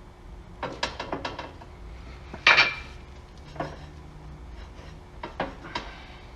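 Metallic clicks and clanks from the press tool and engine mount bushing as the press is backed off and reset, with the bushing not yet centred. There are several short runs of ticks and one louder clank about two and a half seconds in.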